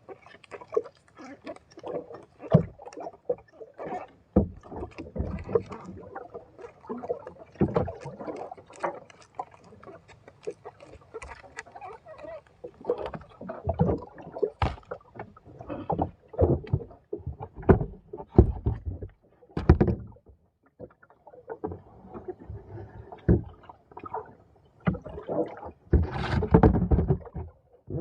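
Small fishing boat on the water: irregular knocks against the hull and water splashing, with a louder cluster of knocks and splashes near the end.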